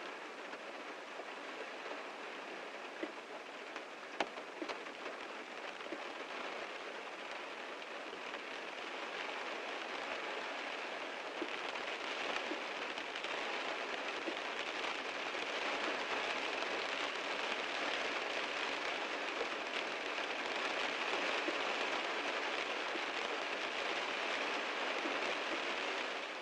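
Heavy rain falling on a car, a steady hiss with individual drops ticking on the body, growing a little heavier about halfway through.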